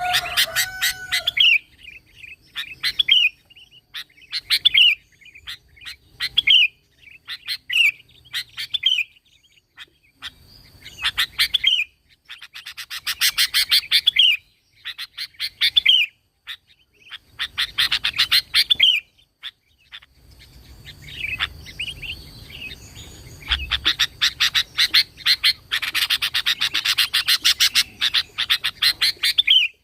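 Sooty-headed bulbul (kutilang) singing actively: short, rapid chattering phrases, each ending in a falling note, repeated every second or two, running into longer, denser bouts in the second half.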